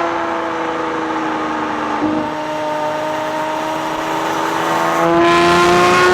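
Lamborghini Aventador's V12 engine with an aftermarket exhaust running under load on a dynamometer. The note holds nearly steady, then climbs in pitch and grows louder over the last second or so as it revs up.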